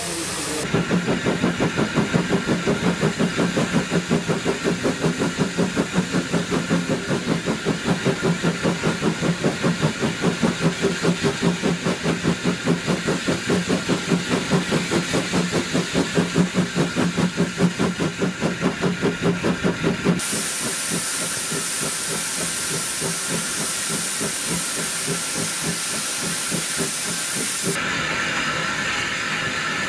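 Steam tank locomotive working, its exhaust beating in rapid, even chuffs for about twenty seconds, then giving way to a steady hiss of steam.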